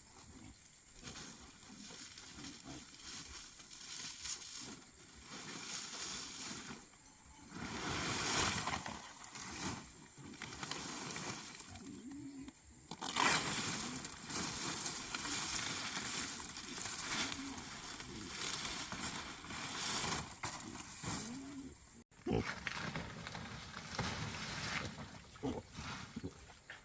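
Pigs squealing and grunting in rough, noisy bursts that come and go, with a few short low grunts in between.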